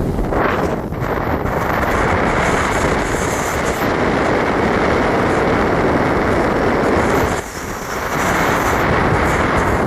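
Heavy wind rushing over the microphone while riding, a steady rumbling rush that drops away briefly about seven and a half seconds in.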